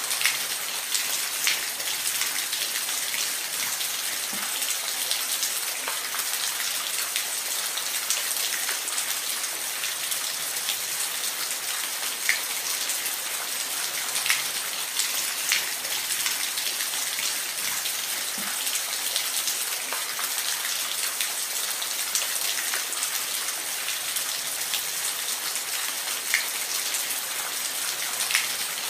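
Steady rain falling in a forest, a dense hiss with scattered louder drops pattering on leaves and the ground.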